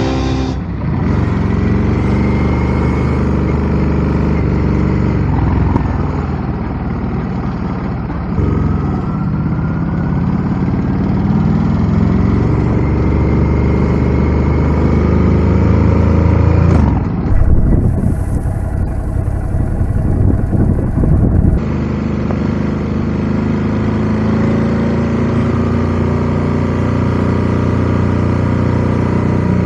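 Ducati Scrambler 1100's L-twin engine under way, rising in pitch several times as it accelerates and running steadily near the end. About two-thirds of the way in, a few seconds of heavy wind rush cover the engine.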